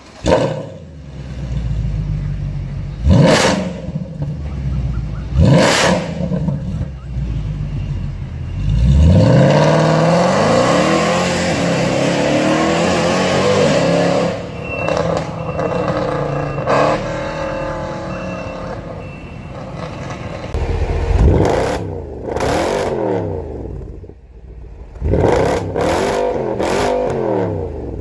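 Mercedes-AMG M156 6.2-litre naturally aspirated V8 revving in two sharp blips, then accelerating hard with a long rising exhaust note from about nine seconds in, and revving up and down again near the end.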